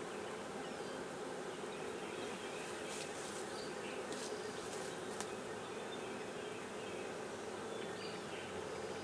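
Honeybee swarm buzzing steadily around an open hive box, with a few light clicks about three to five seconds in.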